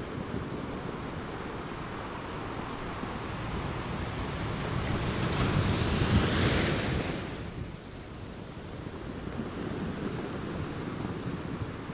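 Caribbean Sea surf washing on a beach, with one wave building and breaking louder about halfway through, then falling back to a steady wash.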